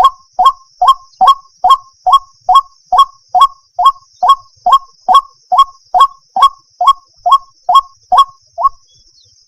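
White-breasted waterhen (ruak-ruak) calling in a fast, even series of short notes, about two to three a second, stopping shortly before the end. It is the female's call to a male, used as a lure.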